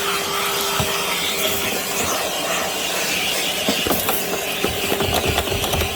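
Milwaukee M18 Fuel cordless wet/dry vacuum running on its highest setting, a steady hiss with a constant whine, sucking up debris. Small clicks and rattles of bits being pulled up the hose come thicker in the second half.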